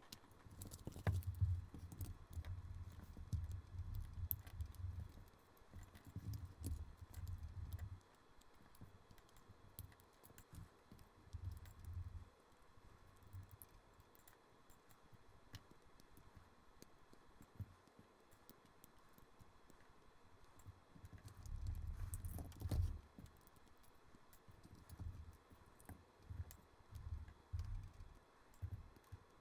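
LEGO plastic bricks being pulled apart and handled: many quick small clicks and clatters, with patches of dull low thumps, loudest in the first several seconds and again about two-thirds of the way through.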